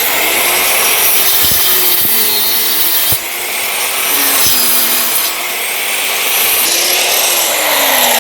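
A power saw cutting through plywood: a steady rasping hiss of the cut, with the motor's hum dipping and rising in pitch as it works.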